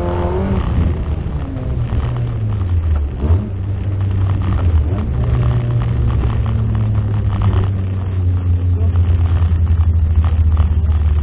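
Fiat Cinquecento 1.2 rally car's engine running hard, a loud steady low drone heard inside the stripped, caged cabin, dipping briefly about three seconds in and again near eight seconds.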